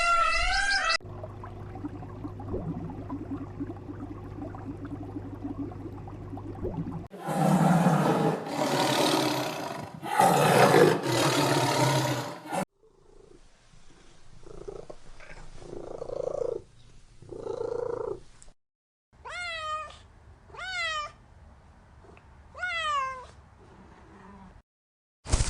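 Several short animal clips in a row: a steady hum, then loud harsh calls, then soft short calls. Near the end a cat meows four times, each meow falling in pitch.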